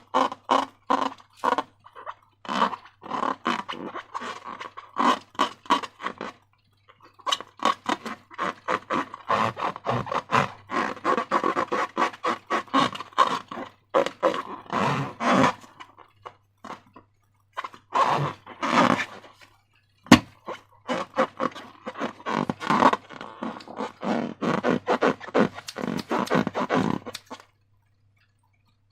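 Sticky, wet slime being squished and worked, giving rapid runs of small clicks and pops in bursts of several seconds with short pauses between them. A single sharp click comes about twenty seconds in.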